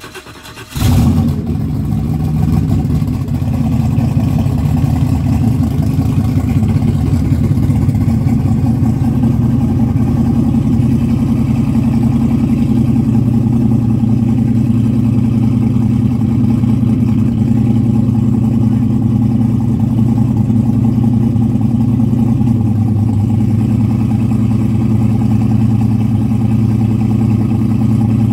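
A fifth-generation Chevrolet Camaro's engine firing up with a sudden loud burst about a second in, then settling into a loud, steady idle. The idle note shifts slightly near the end.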